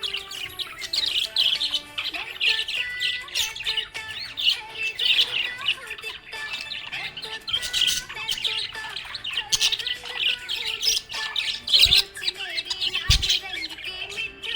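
Budgie chirping and warbling continuously in rapid, high chirps. Two low thumps sound near the end.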